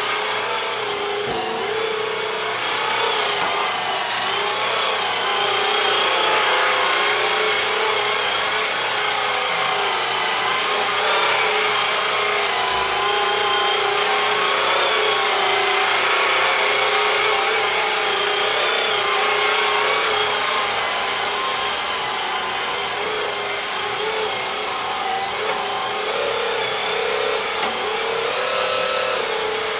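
Cordless battery-powered swivel sweeper running steadily, its motor whine wavering slightly in pitch over a constant hiss of brushes and airflow.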